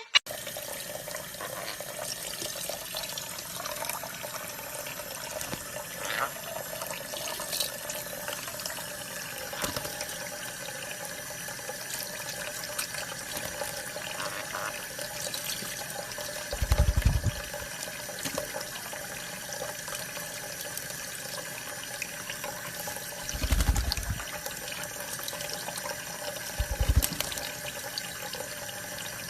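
Steady running water, with three short low thumps in the second half.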